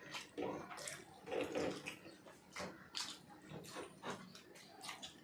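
Close-miked eating sounds of biryani: irregular wet chewing and mouth noises.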